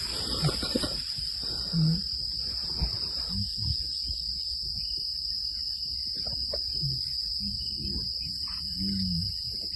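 Steady high-pitched chorus of crickets in the evening bush, with a few short low grunts scattered through, the loudest about two seconds in.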